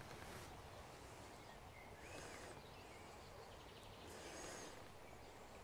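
Near silence: faint outdoor background hiss with a couple of soft bird calls, one about two seconds in and a higher, thinner one a little after four seconds.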